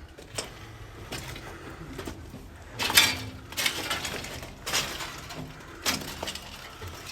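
Footsteps scuffing on a tunnel floor: irregular short scrapes roughly once a second, the loudest about three seconds in.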